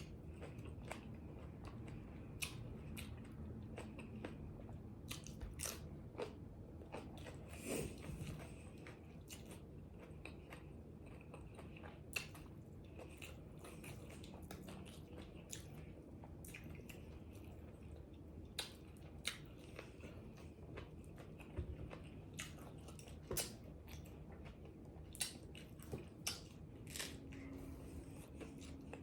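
A person chewing and biting food close to the microphone, with irregular small crunches and mouth clicks.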